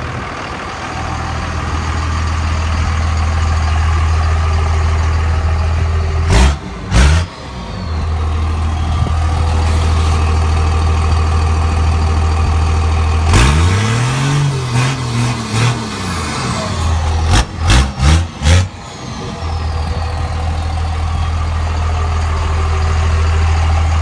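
Straight-piped 2001 Dodge Cummins inline-six turbodiesel idling with no muffler, loud. It is blipped twice about six seconds in, revved up and back down once around the middle, then blipped about four times in quick succession, with a high whistle falling away after the revs.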